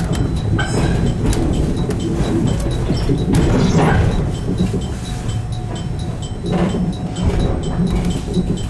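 115 series electric train running on the rails, heard from the driving cab: a steady rumble from the wheels and running gear, with a faint ticking that repeats about twice a second.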